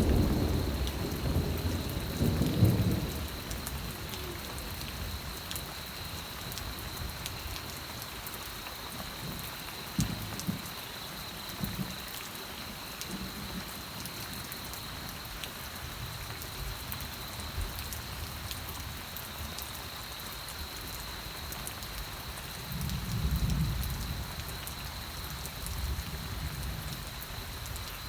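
Steady rain with low rolls of thunder, one in the first few seconds and another about twenty-three seconds in, and a thin steady high tone behind the rain.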